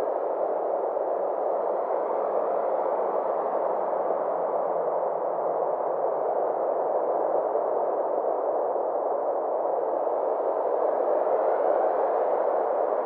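Synthesized space-ambience drone: a steady, even wash of mid-pitched noise whose brightness slowly swells and fades.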